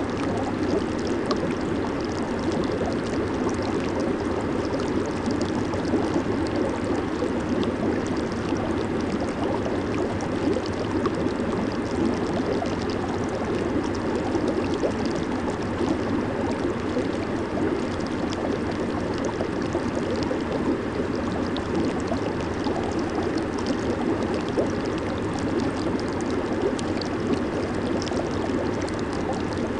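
Jacuzzi bubbling and churning steadily: water agitated by the tub's jets and air bubbles, a constant dense rush with fine fizzing on top.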